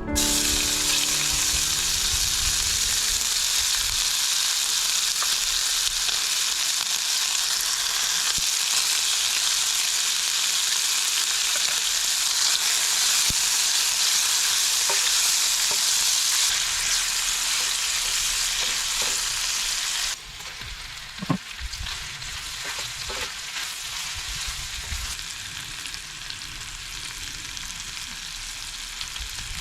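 Food frying in hot oil, a dense, steady sizzle. About two-thirds of the way through it drops suddenly to a quieter sizzle, and a sharp knock follows a second later.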